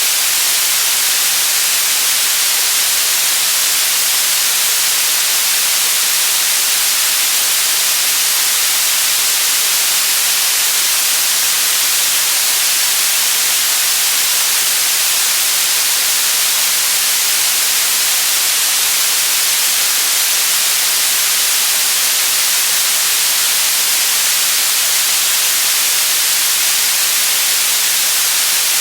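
Electronically generated white noise: a steady, unchanging hiss, strongest in the high end.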